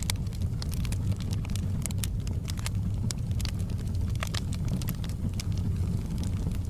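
Wood fire in a fireplace crackling, with sharp irregular pops and snaps several times a second over a steady low rumble of the flames.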